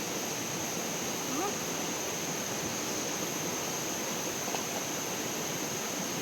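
Water rushing steadily, with a steady high-pitched whine over it and a couple of faint distant voices.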